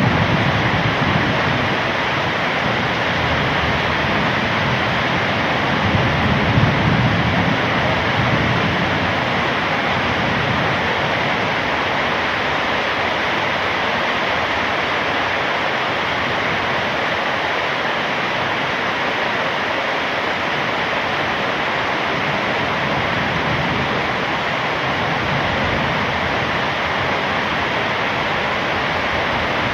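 Heavy rain falling steadily, an even loud hiss, with a brief low rumble swelling about six to seven seconds in.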